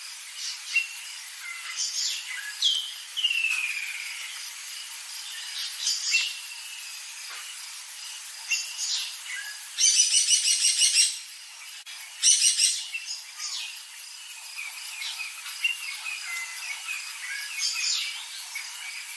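Several birds calling and chirping, with a falling whistle about three seconds in and two loud rapid trills past the middle, over a fast, very high ticking.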